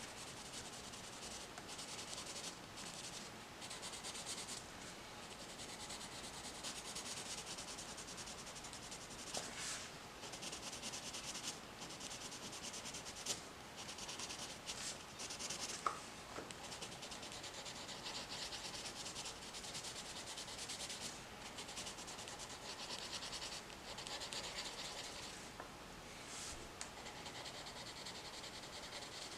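Coloured pencil shading on paper: faint scratchy back-and-forth strokes that come in runs with brief pauses.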